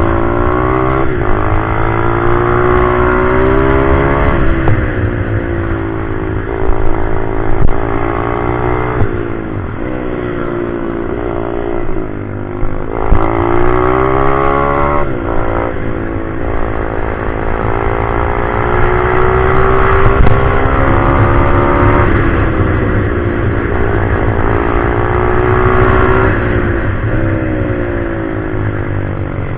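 Pit bike's small single-cylinder four-stroke engine being ridden hard, its pitch climbing again and again under acceleration and then dropping back.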